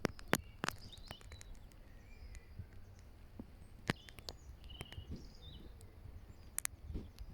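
Forest ambience: faint short bird chirps over a low rumble, with scattered sharp clicks.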